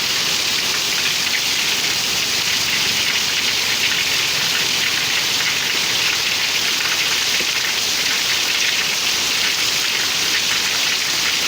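Heavy rain pouring steadily, dense patter of drops hitting surfaces.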